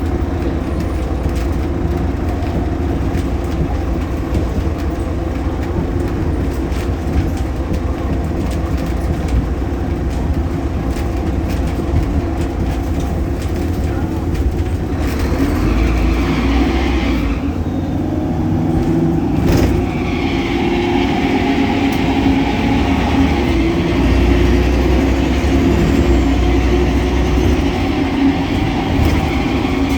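Solaris Urbino 18 articulated bus heard from inside, its DAF Paccar PR265 diesel and ZF Ecolife automatic gearbox running with a steady rumble and cabin rattle. After a sharp click about two-thirds in, the engine note rises slowly as the bus pulls away.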